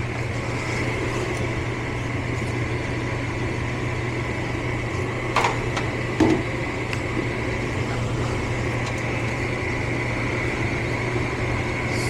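Gas furnace blower running with a steady hum, with two short knocks about halfway through. The control board has left the fan on after failed ignition and is flashing an open-limit fault.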